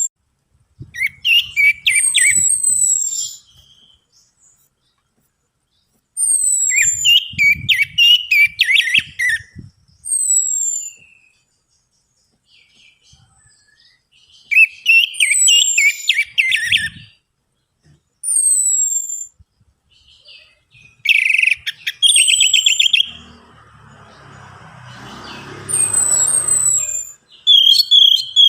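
Orange-headed thrush singing in bursts of a few seconds with pauses between them, mixing sharp falling high whistles with quick warbled notes. A soft rustling noise comes between phrases near the end.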